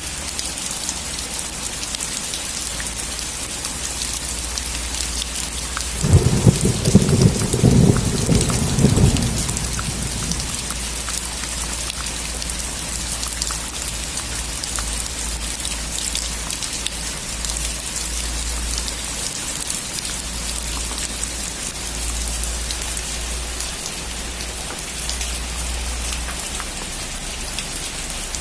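Steady rain falling, with a loud clap of thunder about six seconds in that rumbles low for some three seconds before dying away under the rain.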